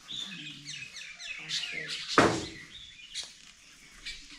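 Many birds chirping in a tree canopy, a busy run of short calls that fall quickly in pitch, thinning out toward the end. A single sharp thump about two seconds in is the loudest sound.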